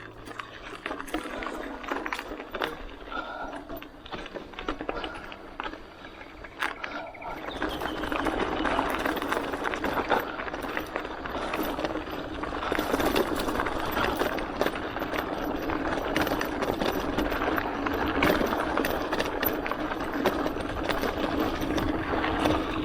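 Merida Big Trail hardtail mountain bike on a dirt trail. For the first several seconds there are scattered light clicks, then from about seven seconds in a louder, steady rumble and rattle of tyres and drivetrain as the bike rolls along the trail.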